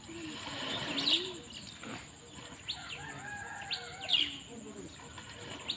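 Birds chirping in short, sharp calls, about one every second, over a steady high-pitched tone.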